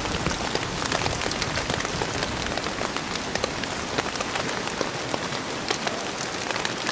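Heavy rain falling steadily on a poncho overhead, a dense even hiss dotted with many small sharp drop ticks.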